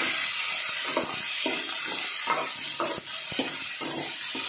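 Chopped onions, carrots, green chillies and tomato frying in hot oil with a steady sizzle. A spoon stirs them, scraping and knocking against the pot about twice a second.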